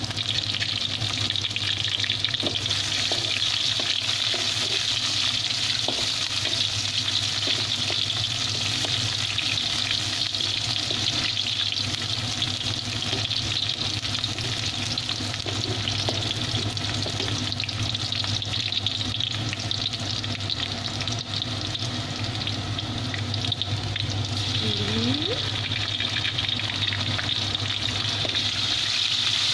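Sliced onion and garlic frying in hot oil in a steel wok: a steady sizzling hiss, stirred with a metal slotted spatula that gives occasional light scrapes.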